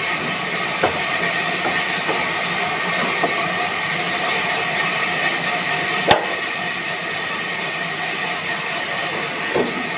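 Sawmill machinery running steadily with a hiss and a steady whine, with a few sharp knocks of wood, the loudest about six seconds in.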